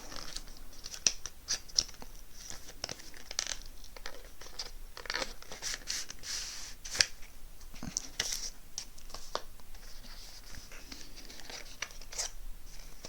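Product packaging being cut and torn open by hand: irregular crinkling, scraping and tearing with scattered sharp clicks.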